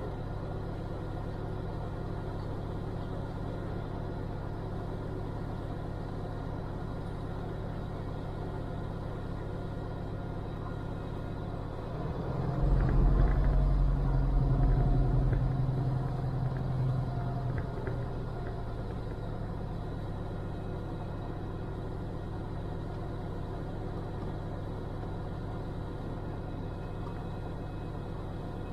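Cirrus single-engine piston aircraft engine running at low power on the ground, a steady drone with a few constant tones. A louder low rumble swells about twelve seconds in and fades over the next several seconds.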